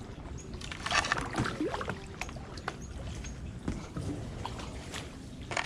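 Kayak paddling: paddle blades dipping into the water and dripping, with one louder watery rush about a second in and a couple of sharp knocks later on.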